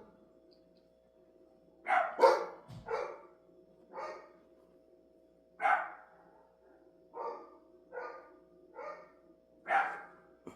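A dog barking: about nine separate barks, irregularly spaced, starting about two seconds in.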